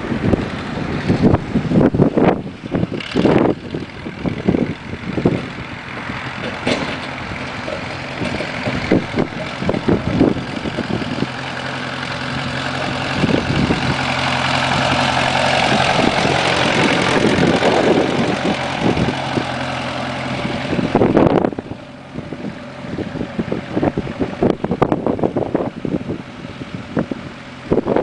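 Small tractor engine running steadily, its noise building over several seconds and then dropping off suddenly about three quarters of the way through. Wind buffets the microphone at the start and end.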